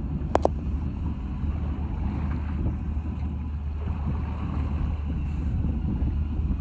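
Fishing boat's engine running steadily with a low hum, heard on deck with some wind noise; two sharp clicks sound just under half a second in.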